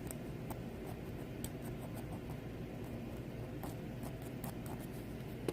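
Faint scratching and scattered light clicks of a small hand tool working the metal base of a die-cast toy car, grooving out the axle seat, over a steady low hum. A sharper click comes near the end.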